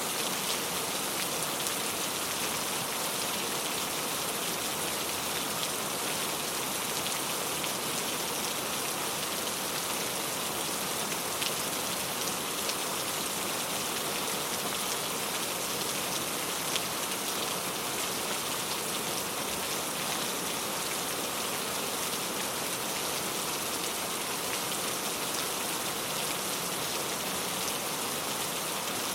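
Steady rain falling and pattering on a surface, with an even hiss and scattered light drop ticks.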